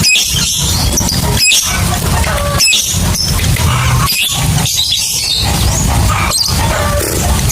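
Lovebirds chattering in rapid, high-pitched squeaks and chirps over a steady low rumble. The sound drops out briefly about every second and a half.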